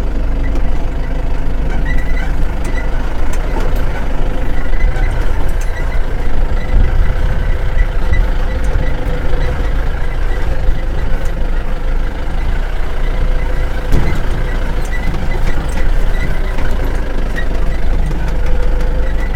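Safari vehicle driving along, a steady, loud engine and road rumble heard from on board.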